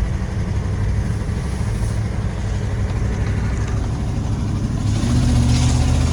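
Ford 460 big-block V8 (7.5 L) in a 1996 F-250 running as the truck is driven, heard from inside the cab. The engine drone rises in pitch and gets louder about five seconds in as it picks up speed. The driver suspects a slight exhaust leak.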